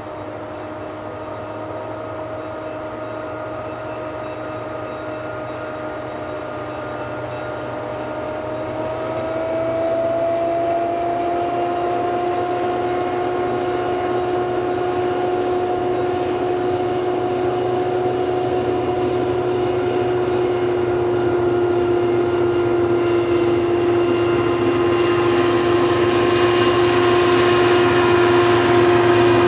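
Diesel locomotive of a loaded coal train approaching, a steady engine drone growing steadily louder and rising slightly in pitch about nine seconds in. Near the end, the rumble of the loaded coal hopper cars rolling past joins it.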